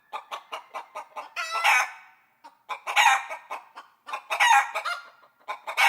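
Chicken clucking: quick runs of short clucks, each ending in a longer drawn-out call, repeating about every one and a half seconds.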